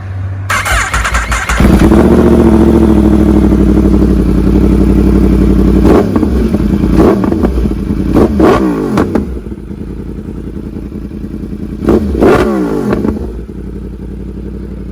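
Yamaha R1's inline-four engine through an aftermarket exhaust, held at raised revs for a few seconds, then blipped in several sharp revs that fall back to idle each time.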